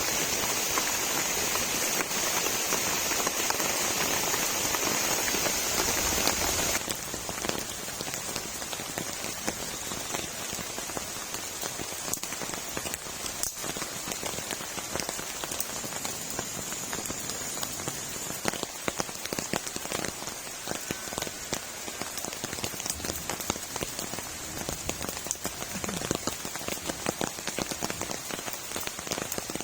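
Heavy rain falling steadily, a dense hiss full of single drops ticking. About seven seconds in it drops abruptly to a quieter, more pattering level.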